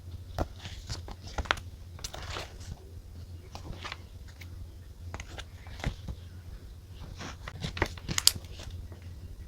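Desk-top journaling sounds: irregular clicks, taps and brief paper rustles and scratches from handling a diary, pens and stickers, over a steady low hum.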